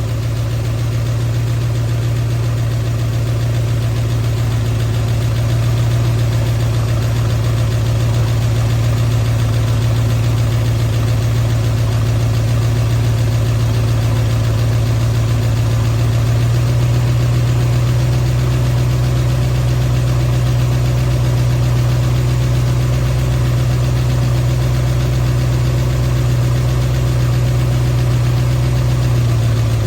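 Ford 351 Windsor V8 idling steadily during an initial tune-up after cam break-in, with ignition timing that reads a little advanced. The idle note deepens slightly a little past halfway and settles back near the end.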